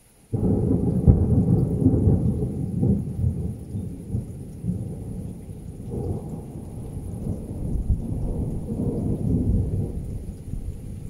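Thunder: a sudden loud onset just after the start, then a long low rolling rumble that eases, swells again about two-thirds of the way through, and fades.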